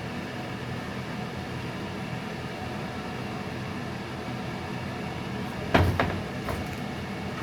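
Steady mechanical hum, with a sharp double knock about six seconds in and a lighter knock half a second later.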